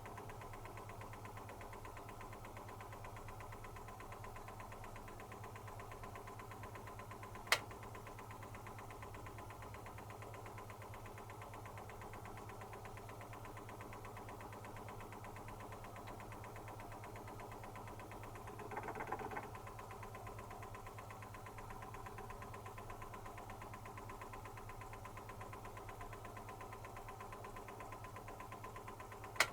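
Zanussi FC1000 compact washing machine running with a quiet, steady hum. A single sharp click comes about a quarter of the way in, and a brief swishing rush about two-thirds through.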